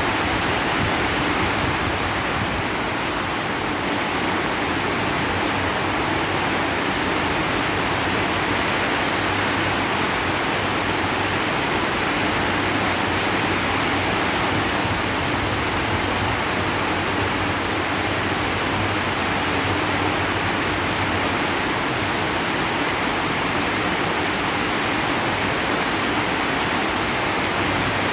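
Rain falling steadily on a zinc sheet roof, a dense, even hiss with no let-up.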